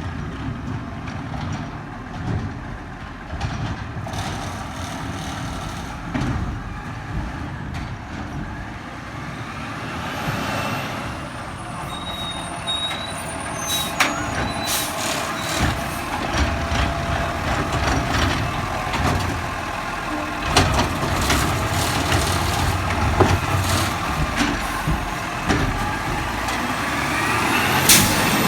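Garbage truck at work: its diesel engine runs under load, with sharp metal knocks and clanks as it handles cans. A rising whine comes about ten seconds in and again near the end.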